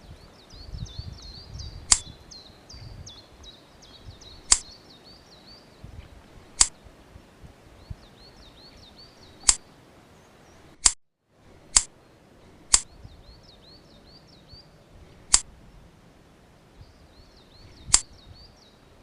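Pruning shears snipping twigs on a tamarind bonsai: nine sharp single snips spaced a second or more apart, with a bird chirping in quick runs behind them.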